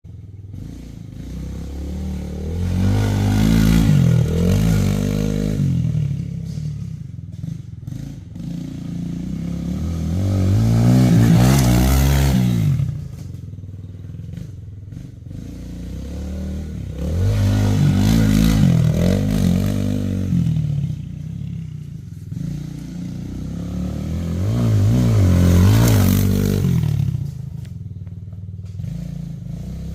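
Small pit-bike engine running and revving as the bike is ridden, swelling loud about every seven seconds, four times, its pitch climbing and falling with each swell.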